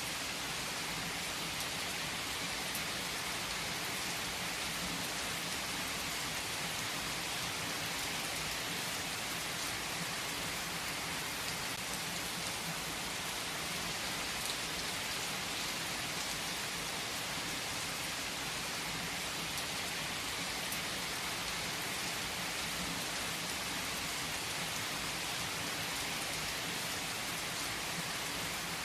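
Steady rain falling and pattering on surfaces, an even hiss with scattered individual drops.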